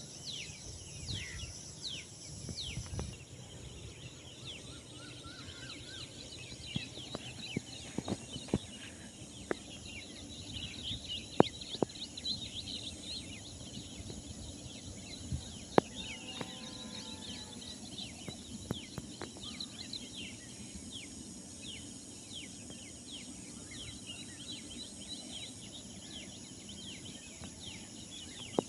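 Many small birds chirping in a morning chorus of short, quick, falling chirps over a steady high-pitched drone. A few sharp clicks stand out as the loudest sounds, and one lower, fuller call comes about halfway through.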